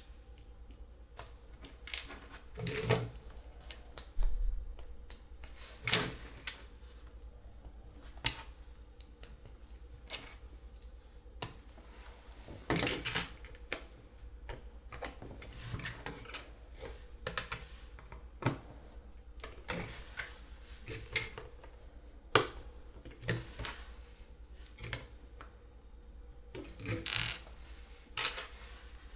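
LEGO plastic bricks being handled and pressed together: irregular sharp clicks and short clattering clusters of small pieces, one every second or two.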